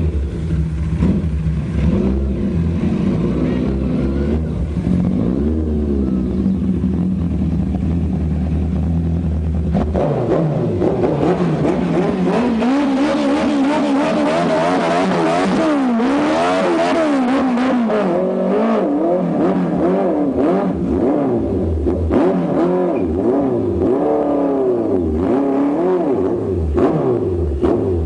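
Motorcycle engine fitted with an oversized exhaust pipe, running steadily at first, then revved repeatedly from about ten seconds in, its pitch rising and falling with each blip of the throttle.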